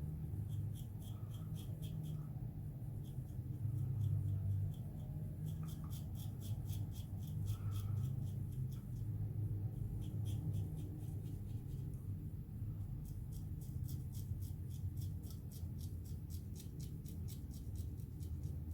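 Double-edge safety razor scraping through lathered stubble in runs of short quick strokes, several a second, with brief pauses between runs.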